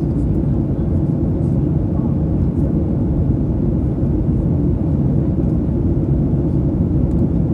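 Steady, deep engine and air noise inside the cabin of a Boeing 737-800 airliner.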